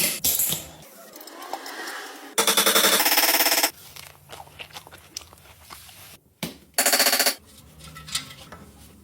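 Impact wrench run in two short bursts of rapid hammering, the first about a second long and the second about half a second, with quieter clinks of tool handling between them.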